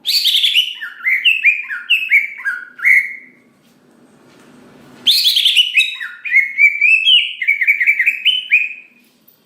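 Green leafbird (cucak ijo) singing in full voice: two bursts of rapid, varied, sliding whistled notes, each lasting three to four seconds, separated by a pause of about a second and a half.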